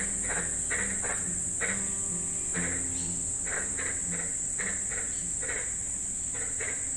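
Tropical evening wildlife chorus: a steady high-pitched insect buzz with short chirping calls repeating about once or twice a second.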